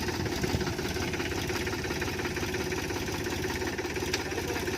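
Farm vehicle engine running steadily at idle with a rapid, even chugging.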